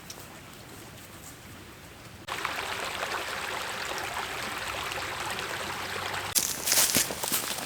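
A steady rush of water that starts abruptly about two seconds in, over quieter outdoor background. About six seconds in it cuts to a louder patch of sharp crunching clicks.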